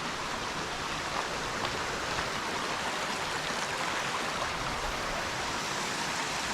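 Stream rushing over small waterfalls: a steady, even rush of water.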